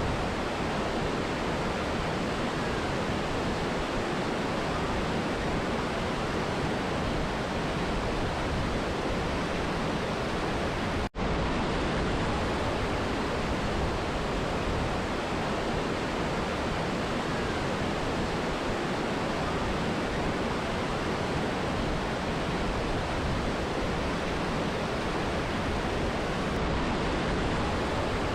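Steady rush of a mountain river and waterfall, an even wash of water noise with no changes in level; the sound cuts out for an instant about eleven seconds in.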